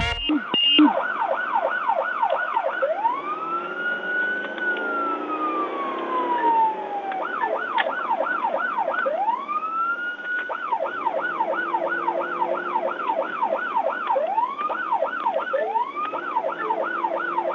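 Police car siren alternating between a fast yelp, about three sweeps a second, and a slower wail that rises and falls, such as one long fall from about 4 to 7 seconds in.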